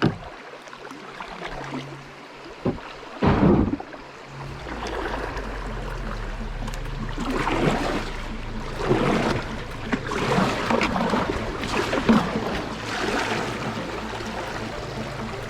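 Water splashing and sloshing around a sit-on-top kayak, with a couple of louder splashes about three seconds in and then regular surges roughly once a second, typical of paddle strokes.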